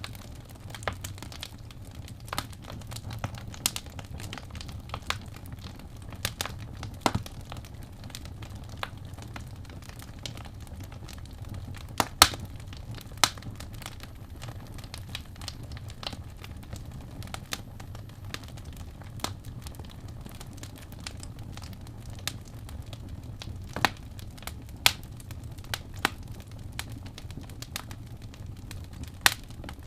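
Wood fire burning in a fireplace, with irregular sharp crackles and pops, the loudest a little over a third of the way in, over a steady low rumble of the flames.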